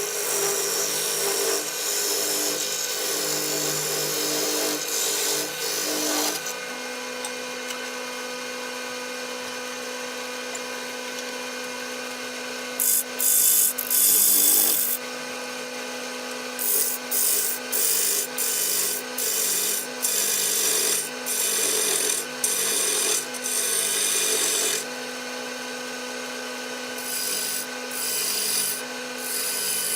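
Wood lathe motor running steadily while a walnut workpiece spins, with something pressed against the wood in a long hissing pass at first and then in repeated short bursts of rubbing, each a second or so long.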